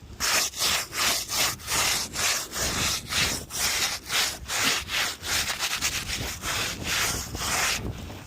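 Rapid back-and-forth scraping strokes against asphalt roof shingles, about three a second.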